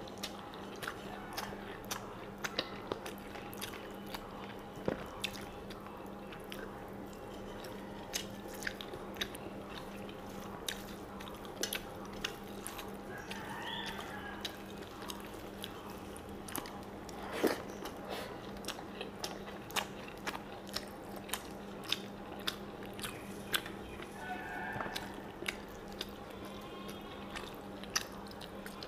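Close-up mouth sounds of a person eating bata fish and rice by hand: chewing and lip smacking, with many short sharp clicks throughout, over a steady low hum.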